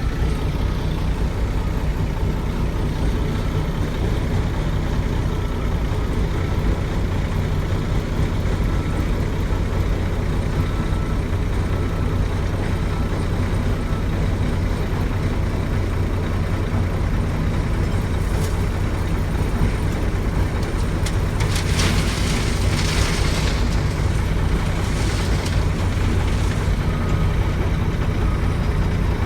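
Heavy truck's diesel engine running steadily, with several short hissing bursts about two-thirds of the way through.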